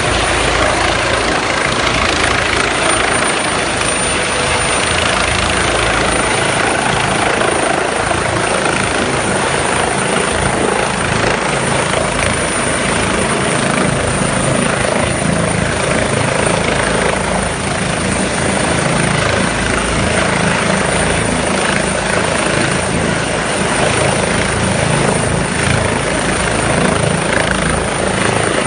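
Helicopter rotor and engine running loudly and steadily.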